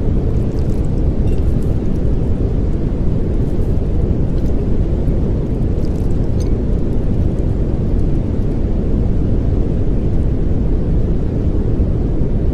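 Steady pink noise: an even, deep rushing hiss with most of its weight in the low end.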